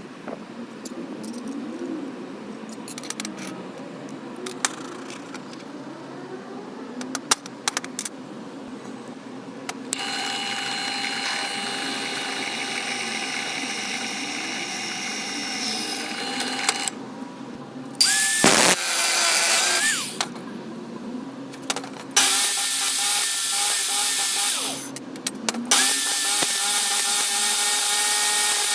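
Angle grinder motor driving a home-made belt grinder, run in several stretches with a steady whine. One louder run near the middle rises and falls in pitch. The first several seconds hold only scattered clicks and knocks of handling.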